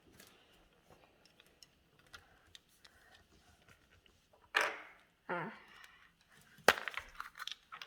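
Small plastic toy pieces and packaging being handled, with faint clicks and rustles. There is a sharp click near the end.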